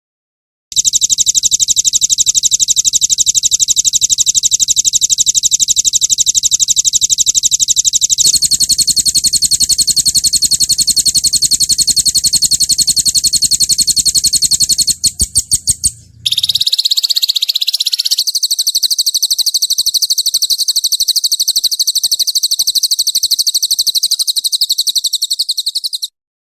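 Songbird song of fast rolling trills: high notes repeated many times a second ('roll tembak' song). It begins about a second in, changes to a different trill at about eight seconds and again around sixteen seconds with a few separate bursts between, and cuts off suddenly near the end.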